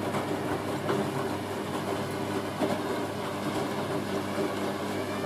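Hoover A3060 Electronic 1100 washing machine in its second intermediate spin: the motor hums steadily and the drum of wet towels rumbles, with a couple of light knocks.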